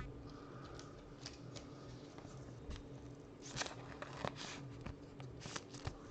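Trading cards being handled: faint scattered clicks and rustles as cards are slid and flipped, busiest a little past the middle.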